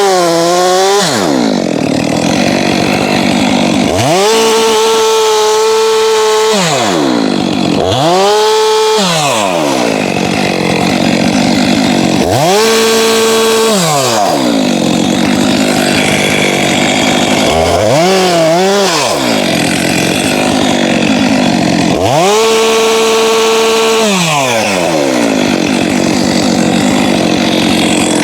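Two-stroke chainsaw cutting into a hackberry trunk. The engine climbs to a high steady pitch at full throttle, holds for a second or two and drops back, about five times, with a lower wavering pitch between these peaks.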